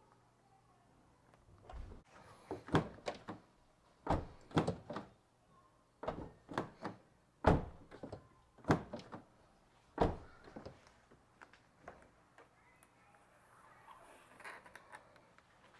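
Knocks and clicks from hands working a plastic rain guard on a car door while adjusting its fit: a dozen or more sharp, separate impacts over about ten seconds, then faint rustling near the end.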